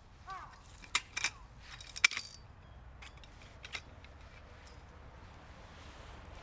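A few sharp metallic clinks and knocks of gear being handled, about one second in and again about two seconds in, the last and loudest one ringing briefly.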